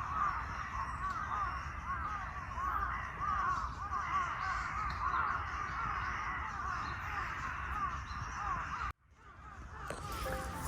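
A large flock of birds calling all at once, a dense chorus of short overlapping calls. It cuts off abruptly near the end, and soft music begins.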